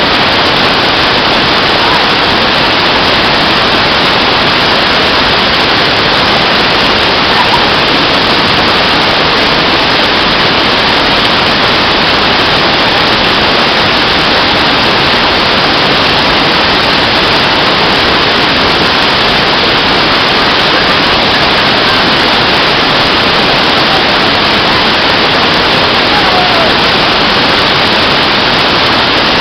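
Steady, even rush of flowing water, a constant hiss with no changes.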